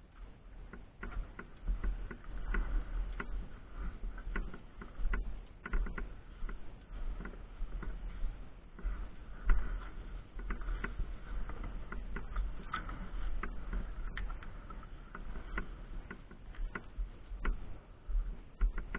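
Bicycle ridden over a rough forest trail: irregular clicks, knocks and rattles, with a steady low rumble of wind on the microphone.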